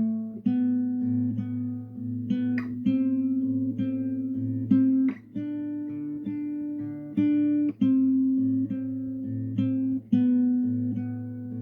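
Acoustic guitar playing a slow instrumental passage: single plucked notes and chords ringing out one after another, with no singing.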